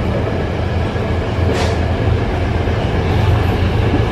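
Tokyo Metro 03 series commuter train running along the line, heard from inside the passenger car: a steady low rumble of wheels and running gear, with one brief sharp noise about a second and a half in.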